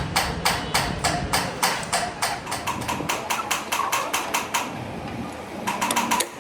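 Hammer striking steel over and over in a steady rhythm, each blow with a short metallic ring. The blows come about three a second at first and quicken to about five a second, stop for about a second near the end, then start again.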